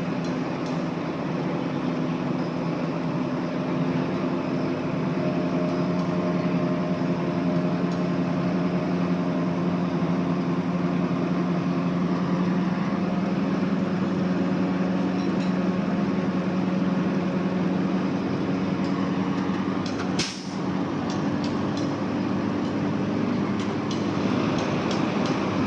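Heavy diesel engine of earthmoving machinery running steadily at a constant pitch, with one brief sharp break about twenty seconds in and faint clicks near the end.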